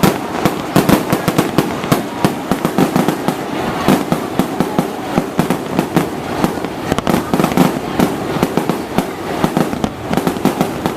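A fireworks display going off, many sharp bangs and crackles in quick, overlapping succession.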